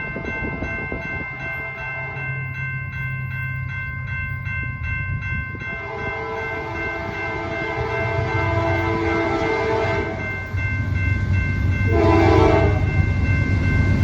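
Diesel freight locomotive's air horn blowing for a crossing: a long blast starting about six seconds in, then a short, louder blast near the end, over the locomotive's low engine rumble.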